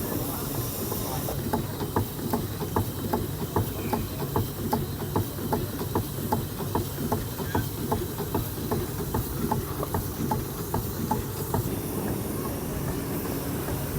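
Steam engine running, with a regular ticking beat about three times a second over a steady hiss and rumble; the ticking fades out near the end.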